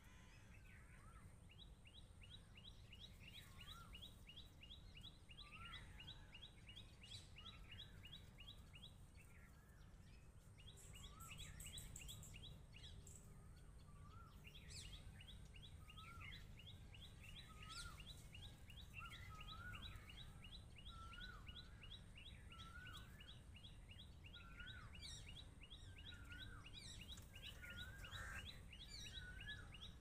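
Faint birdsong: small birds chirping, one short note repeated about once a second and a fast, even, high trill coming and going, over a low steady background rumble.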